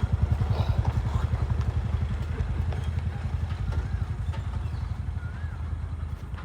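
An engine running at idle, a steady rapid low chugging that eases off a little toward the end.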